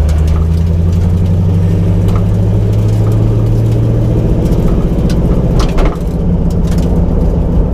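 1989 Mustang GT's 5.0 V8 running under load, heard from inside the cabin as a loud, steady low drone. About six seconds in it briefly drops and changes pitch.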